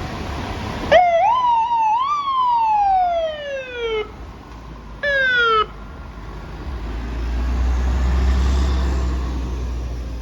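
Fire truck siren starting about a second in: it winds up in two quick rises, then slides slowly down in pitch and cuts off. A short second siren note sounds about five seconds in. Then a heavy truck engine's low rumble swells and fades as the apparatus goes by.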